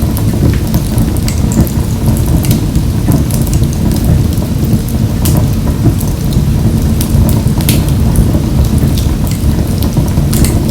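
Wood fire burning in a wood-burning stove: a steady low rumble from the flames, with frequent sharp crackles and pops from the burning wood.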